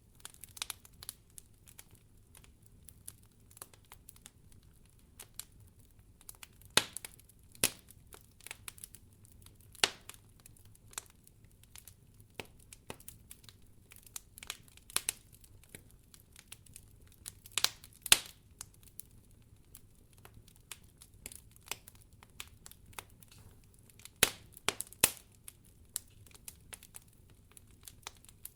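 Wood fire crackling in a fireplace: irregular sharp pops and snaps over a faint steady low rumble, with the loudest pops about 7, 18 and 24–25 seconds in.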